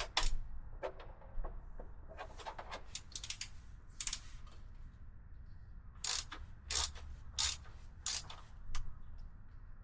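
Hand ratchet wrench clicking as a bolt is worked loose. There are short bursts of clicks through the first half, then a steady back-and-forth of about five ratcheting strokes, roughly one every two-thirds of a second.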